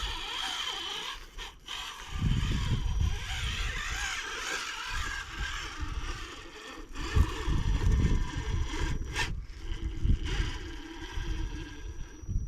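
RC rock crawler grinding and scraping its tyres over rock and dirt, with wind buffeting the microphone in heavy gusts.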